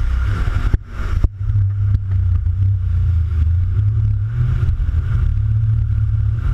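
Jet ski running over the water, with heavy wind buffeting the microphone; the sound drops out briefly about a second in.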